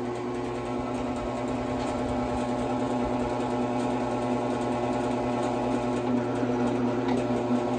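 Electric drill running steadily as an old, worn step drill bit grinds slowly through a steel mounting plate, with lubricant on the cut. The dull bit is why the cut goes slowly.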